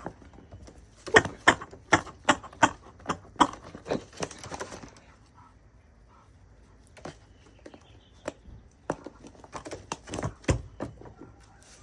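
A raven tapping on a hard surface: a quick, irregular run of sharp taps and knocks, then a pause, then scattered taps again.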